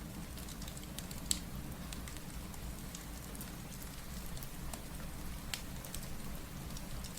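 Steady rain, with scattered crackles and pops from a wood fire in a fireplace; one sharp pop stands out about a second in.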